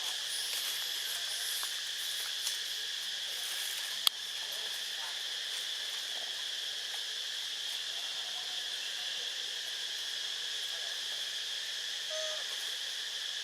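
Steady high-pitched drone of insects, with a single sharp click about four seconds in.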